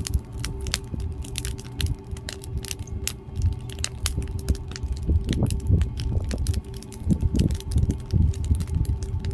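Firewood fire crackling and popping, with many sharp snaps at irregular moments over an uneven low rumble of the burning wood.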